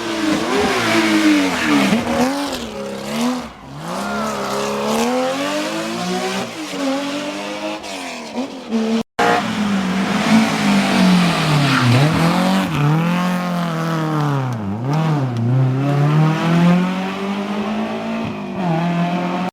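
Historic rally car engines revving hard on a special stage, the engine note climbing and dropping again and again with throttle and gear changes. There is a brief break about nine seconds in, after which another car is heard doing the same.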